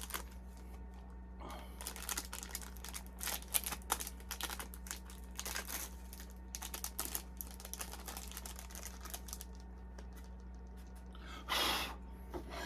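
Paqui One Chip Challenge packaging being handled and opened: irregular small clicks and crinkly rustles of the box and wrapper, with a louder rustle near the end.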